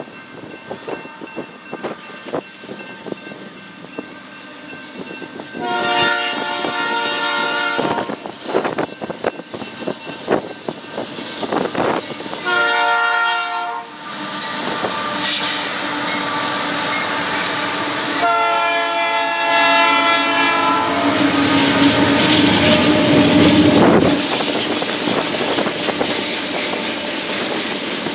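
Union Pacific freight train's multi-chime air horn sounding three blasts for a grade crossing as it approaches. The diesel locomotives then pass, loudest just after the last blast, followed by the freight cars' steady wheel clatter on the rails.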